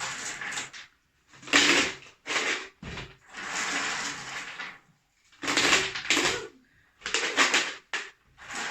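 Small garden stones dropped by hand into a plastic bottle, clattering against the plastic and each other in a string of separate rattles.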